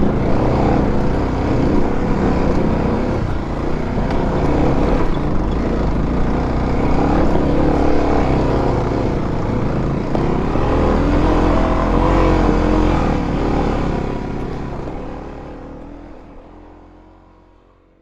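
Single-cylinder dirt bike engine running under way, its pitch rising and falling with the throttle, then fading out over the last few seconds.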